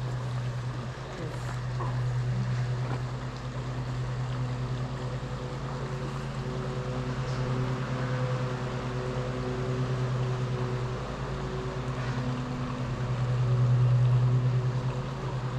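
A steady low hum like a running engine or motor, with an even haze of hiss beneath it, swelling somewhat louder near the end.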